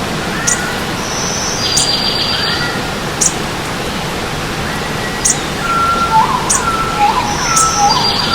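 Several birds singing over the steady rush of stream water: short high chirps about every second and a half, a buzzy trill twice, and a run of repeated whistled notes in the second half.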